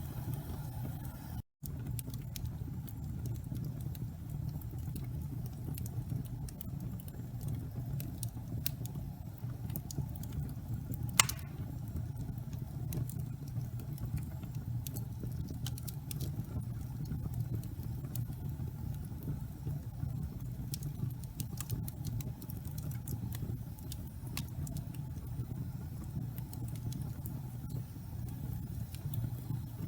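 Wood fire burning in a fireplace: a steady low rumble of flames with scattered small crackles and one loud pop about eleven seconds in.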